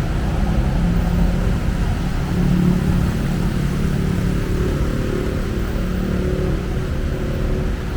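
City street traffic: a steady low rumble of vehicle engines running close by, with an engine hum that wavers slightly in pitch.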